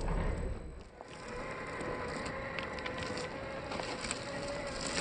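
Electric drive motor and gearbox of a 1/8-scale RC rock crawler whining steadily, creeping slightly up in pitch, with scattered light clicks and knocks from the tyres and chassis on the terrain.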